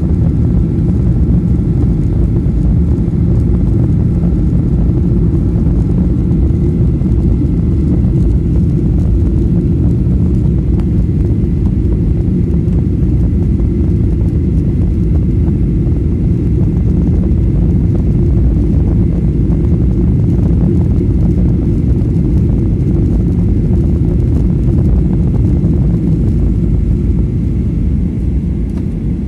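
Steady, loud roar of a Boeing 737-800's jet engines and airflow heard inside the cabin, with faint steady whining tones above it; the level eases off slightly near the end.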